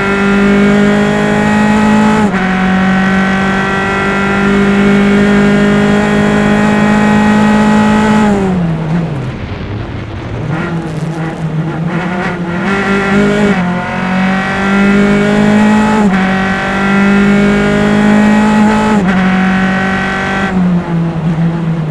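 Onboard sound of a single-seater race car's engine under hard acceleration, its pitch climbing and stepping down at each upshift. About eight seconds in, the note falls away as the car brakes and downshifts for a corner. It then pulls again, with upshifts every two to three seconds.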